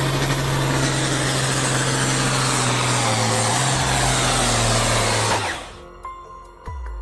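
Tractor engine running hard under load, a loud steady hum with heavy mechanical noise, mixed with background music. It cuts off suddenly about five seconds in, and a short swooshing transition with a low tone follows near the end.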